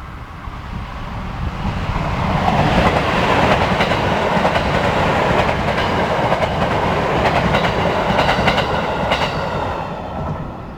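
JR West 321 series electric train running past, growing louder over the first couple of seconds, then wheels clacking rapidly over rail joints before the sound eases near the end.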